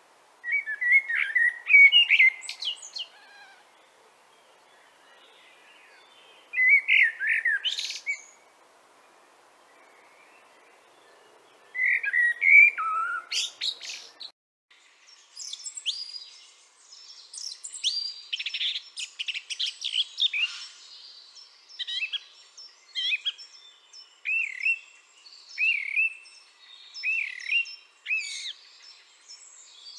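Songbird song from two different recordings. First, three short song phrases with pauses between them. Then, after an abrupt cut about 14 seconds in, a different bird sings almost without pause, with a run of repeated short rising-and-falling notes near the end.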